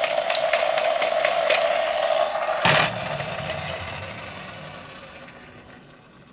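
The geared back-wheel mechanism of a Toyco Doctor Yellow toy train whirring as the wheels spin, a steady whine with fast ticking. A knock comes a little under three seconds in, and the whir then winds down and fades.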